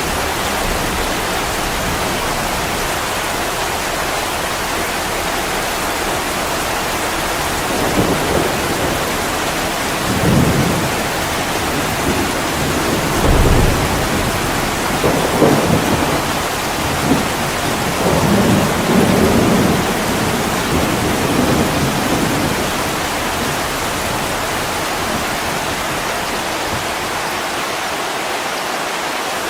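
Heavy rain falling steadily on a window, with low rolling thunder rumbling several times through the middle of the stretch.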